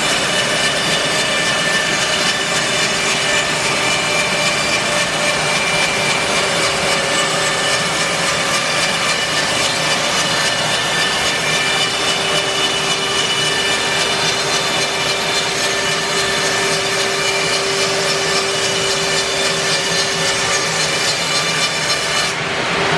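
Bandsaw mill cutting an English larch log: a steady drone of engine and blade with a sustained whine. Just before the end the hiss drops away suddenly.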